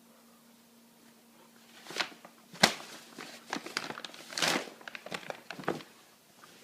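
An Akita puppy playing with a toy: a few sharp knocks and short scuffling noises begin about two seconds in, over a faint steady hum.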